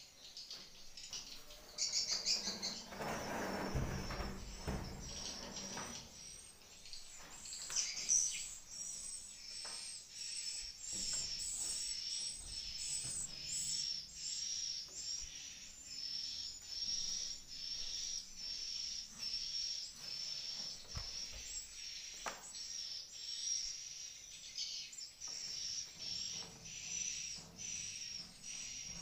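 Swiftlets twittering: a steady run of high chirps repeating more than once a second. A louder rustling or scraping noise comes from about two to six seconds in.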